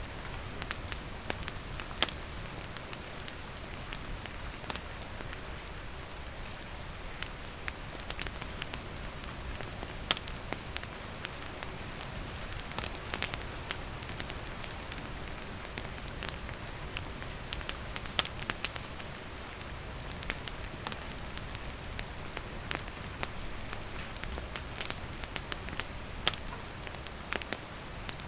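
Steady rain falling on and around a wooden shelter, with a wood campfire crackling and popping in irregular sharp snaps throughout.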